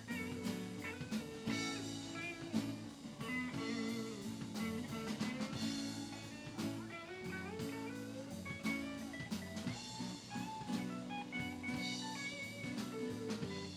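Live band playing an instrumental blues jam: electric guitar lead over bass and drum kit with a steady beat.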